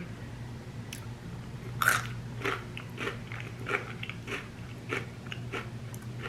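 Close-up chewing of crunchy Cheetos chips: a run of crisp crunches, about two a second.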